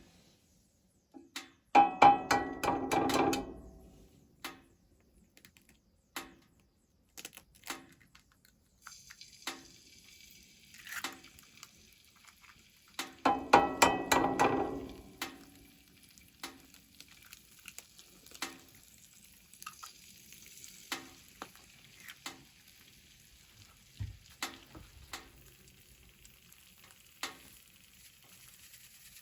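Breakfast cooking. A metal utensil is beaten or stirred rapidly against a ringing metal dish in two short runs, with single taps between them. From about a third of the way in, food sizzles steadily in a hot pan.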